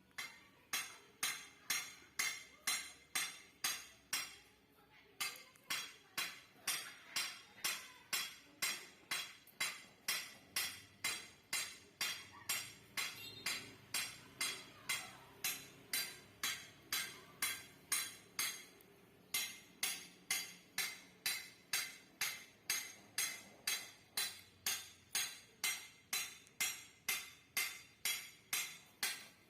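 Steady hammer blows on the steel of a Yamaha RX-King motorcycle exhaust being hollowed out by hand, about two ringing metallic strikes a second, with two brief pauses.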